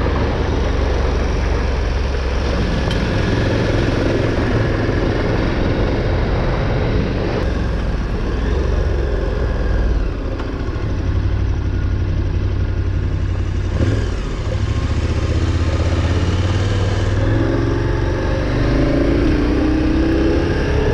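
Adventure motorcycle engine running under way, with wind noise over the microphone. The engine note dips briefly about halfway through and again a few seconds later.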